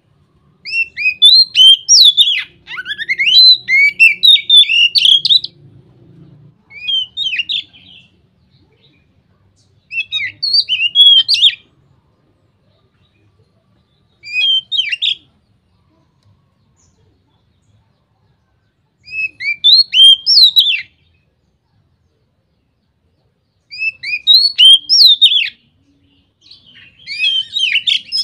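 Oriental magpie-robin (kacer) singing its loud, open full song ('ngeplong'). The song comes in phrases of rapid whistled, sliding and chattering notes, each one to three seconds long, with pauses of a few seconds between them. The longest phrase comes first.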